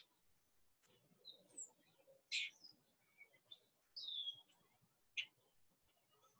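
Faint songbird chirps: a handful of short high calls, the loudest about two and a half seconds in, with a downward-sliding call about four seconds in and another short chirp about a second later.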